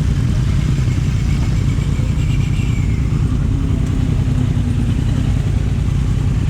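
Motorcycle running on the road: a steady low rumble, with a brief higher whine around the middle.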